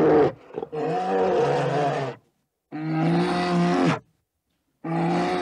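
Polar bear calling in a series of about four long, low, rough calls, each a second or so, with short pauses between them.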